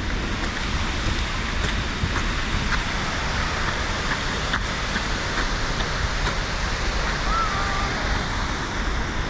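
Steady, even rush of South Falls, a tall waterfall, with water crashing into its plunge pool.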